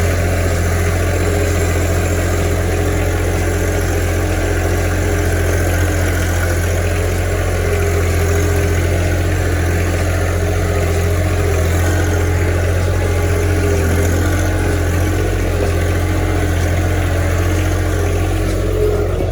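Tractor engine running steadily at a low, even speed, a constant low hum with no revving.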